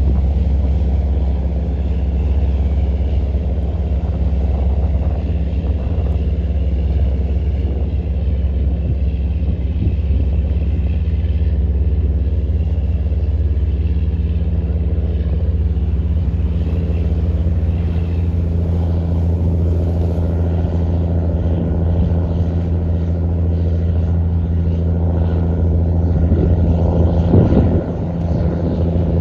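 Fishing boat's diesel engine running steadily, a low drone with a constant pitch; it briefly gets louder a couple of seconds before the end, then dips.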